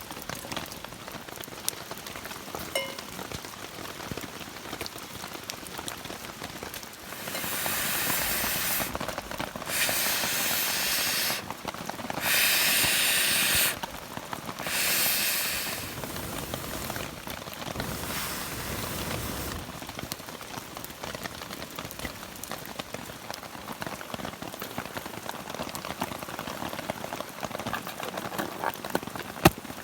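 Steady rain falling. In the middle comes a run of loud hissing bursts, each a second or two long with abrupt starts and stops.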